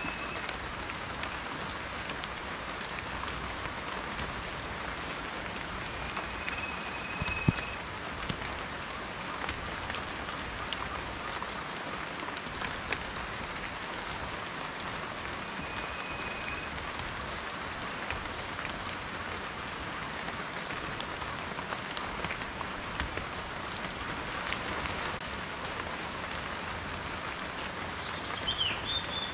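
Steady rain, with many small drops ticking on a surface. A sharp single tap comes about seven and a half seconds in. A brief high whistle-like tone is heard three times, and a short wavering one near the end.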